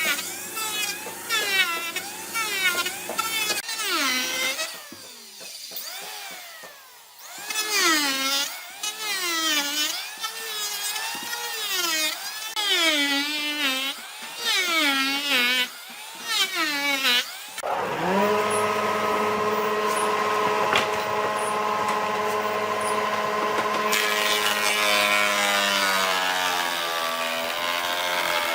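Woodworking tools cutting wood: for most of the first half, repeated strokes whose pitch rises and falls about once a second. Then a power tool's motor starts and runs at a steady pitch, which sags slightly near the end as it meets load.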